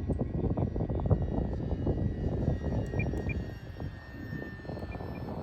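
FMS 1500 mm Cessna 182 RC plane in flight: its brushless electric motor and three-blade propeller make a thin, steady whine that drifts slightly in pitch. Heavy wind buffets the microphone with a gusty rumble, which is the loudest sound.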